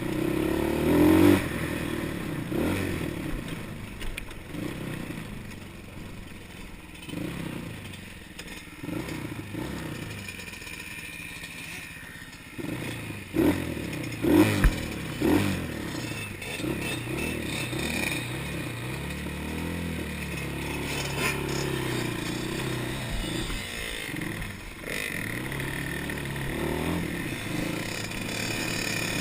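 Engine of an off-road dirt bike or quad running and changing revs as it is ridden over rough ground, with rattling and scraping. Several sharp knocks come about halfway through.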